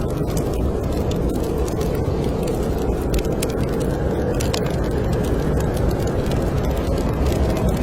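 Snowstorm wind blowing steadily, with a fireplace fire crackling in scattered small pops over it.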